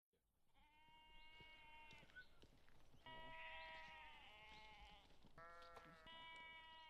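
Faint bleating from farm livestock: four long, steady-pitched bleats, the second the loudest.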